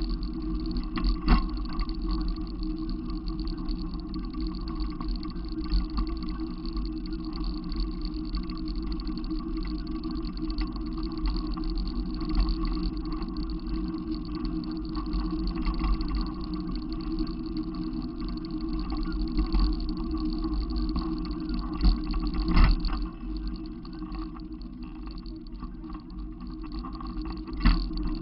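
Steady low rumble of a moving vehicle's engine and road noise, with a few short knocks.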